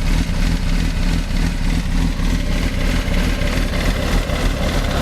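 Honda CB360T motorcycle's air-cooled parallel-twin engine idling steadily after a tune-up of points, ignition timing and valve clearances.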